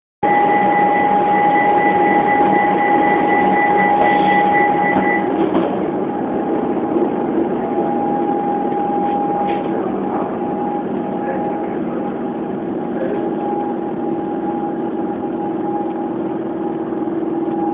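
Inside a Melbourne suburban train carriage pulling out of the station: the steady running noise of the train with a constant high whine, and a second, higher tone that stops about five seconds in.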